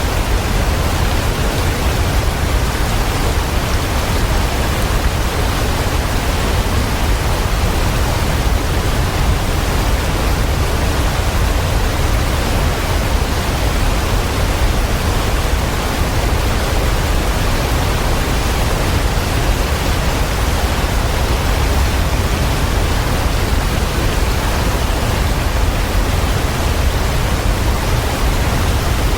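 Waterfall: a steady, even rush of falling water with a deep low rumble underneath, unchanging throughout.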